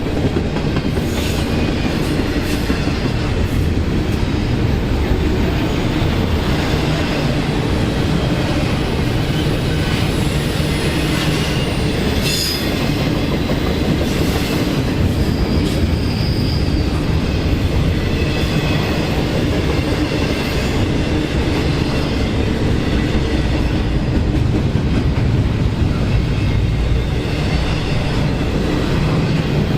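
A train passing close by, its cars rolling steadily over the rails, with a few brief high wheel squeals in the middle.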